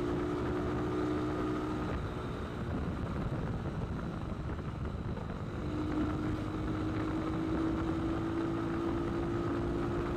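Motorcycle on the move with a steady rush of wind and road noise. A steady engine tone drops away about two seconds in and comes back about six seconds in.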